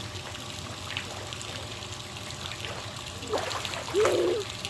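Steady trickling of running water with small drips and splashes. Two short voice sounds come in about three and a half and four seconds in.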